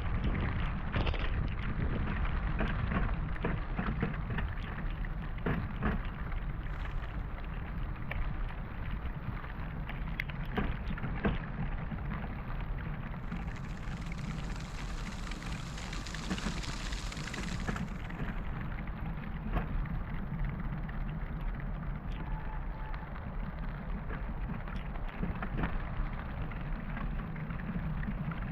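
Heavy rain falling, many drops ticking close to the microphone over a steady low wind rumble. About halfway through, a brighter hiss swells for some four seconds and then stops.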